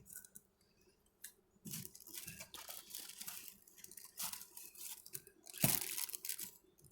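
Pollen patties being handled and laid on the hive: intermittent crinkling and tearing of their paper, loudest near the end.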